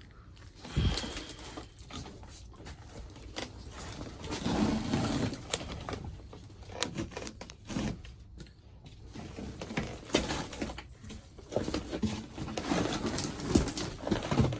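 Old floor padding being pulled and torn up off a rusty car floor pan, with irregular tearing, crunching and scraping and a few sharp knocks.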